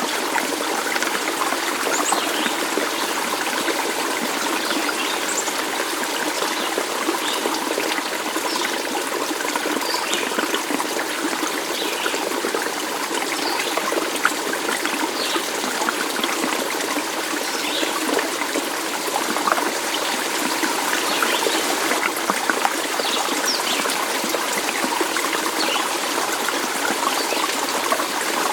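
Stream water trickling and babbling steadily, with many small bright splashes scattered through it.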